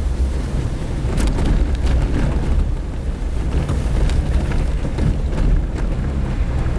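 Suzuki Jimny driving on a dirt road: a steady low engine and tyre rumble with wind buffeting the microphone, and a few light knocks along the way.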